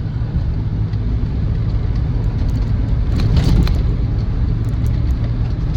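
In-cabin sound of a Land Rover Defender 90's 2.4 TDCi four-cylinder diesel and road noise while driving, a steady low rumble. A slight rattle from the tailgate where the spare wheel hangs, with short sharp clicks about three seconds in.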